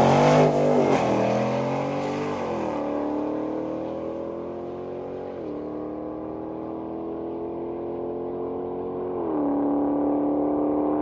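A drag car running at full throttle down the strip on street tires. The engine pitch climbs and drops back at three upshifts, about 3, 5.5 and 9 seconds in. It fades with distance after an unsettled launch, a pass called a 13.1 with the tires spinning.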